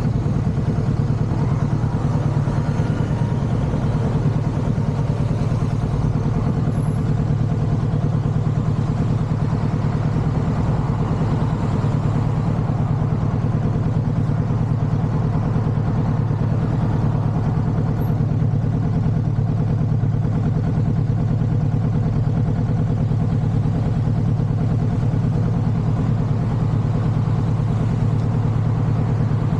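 Motorcycle engine running at a steady, unchanging pitch during a ride.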